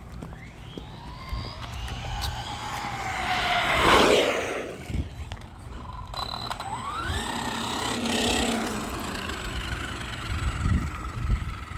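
Electric motor whine of a 3S RC monster truck, rising and falling in pitch with the throttle, loudest at about four seconds and again near eight seconds, over a low rumble of tires on pavement.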